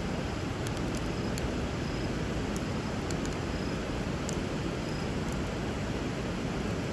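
Steady rush of flowing river water, with a wood fire crackling in small sharp pops every half second or so.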